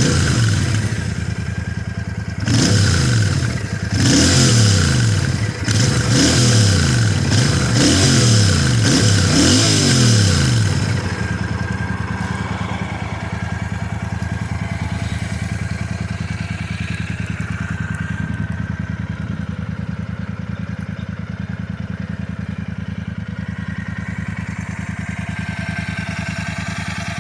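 Royal Enfield Super Meteor 650's 648 cc parallel-twin engine, heard through its exhaust, revved by throttle blips about five times, each a quick rise and fall in pitch. About eleven seconds in it settles into a steady idle.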